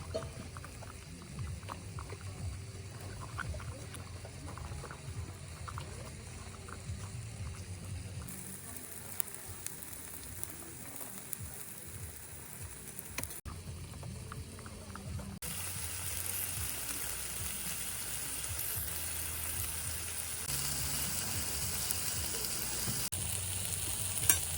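Food cooking in a pan, sizzling and bubbling with small pops. The hiss gets louder and brighter about two-thirds of the way through.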